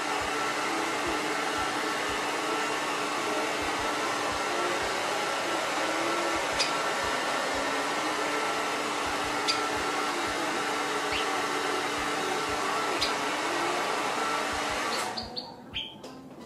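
Hair dryer running steadily, with a few short, high chirps from a white Java sparrow over it; the dryer switches off near the end.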